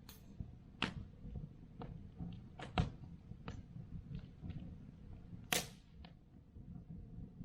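Wood fire crackling: irregular sharp pops and snaps of burning firewood over a low steady rumble, the loudest pop about five and a half seconds in.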